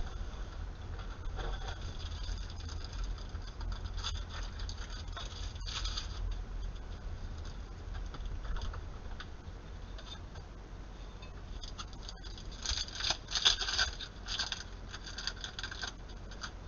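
Trading cards and their packs being handled: soft scratchy rustling and sliding, with a louder run of quick scrapes and crinkles near the end, over a steady low hum.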